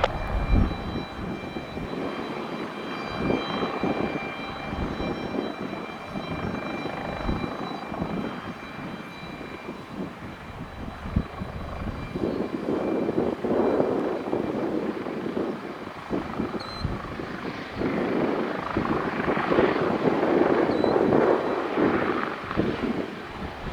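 Eurocopter EC-145 twin-turbine helicopter departing: a steady turbine whine with rotor and engine noise that swells and fades as it goes.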